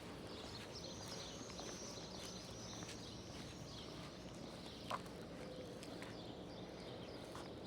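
Quiet outdoor town ambience with small birds chirping high-pitched and faint footsteps, and a single sharp click about five seconds in.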